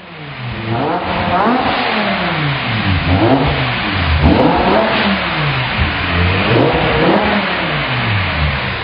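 Car engine being revved repeatedly in free rev: its pitch climbs and falls back about four times in a row.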